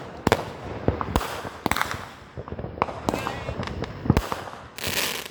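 Fireworks going off: a run of sharp bangs and crackles at irregular spacing, several a second, with a burst of hissing near the end.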